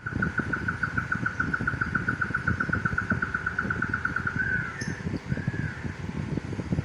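A bird's rapid trill, about nine even notes a second at one pitch for roughly four seconds, followed by two slurred, arched notes. Under it runs a loud, uneven low rumble.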